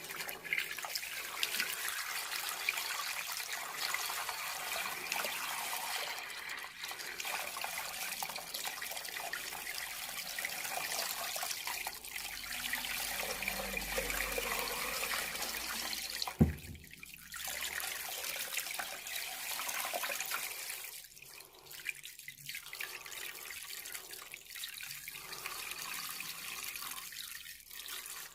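Water falling steadily down a homemade aquarium waterfall, a continuous splashing trickle. One sharp thump about halfway through.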